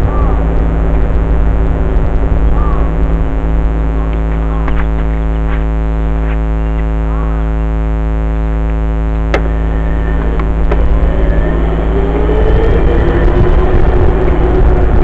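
Dirt bike engine running at a steady speed under heavy low wind rumble on the microphone. It eases off a little a few seconds in and picks up again near the end, with one sharp click about two-thirds of the way through.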